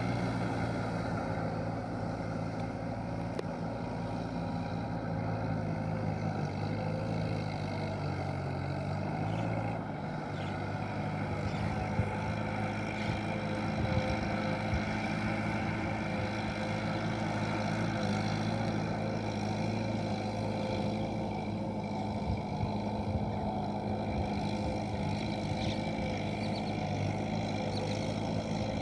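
Kubota M7040SU tractor's diesel engine running steadily under load while ploughing, its note changing about ten seconds in.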